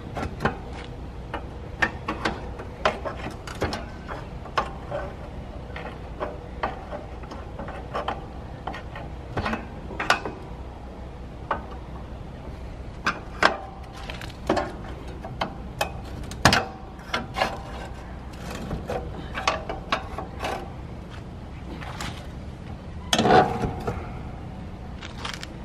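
Irregular mechanical clicks and clanks, with a louder cluster of knocks near the end: hand work on a pop-up camper's jacks while raising one end to level it.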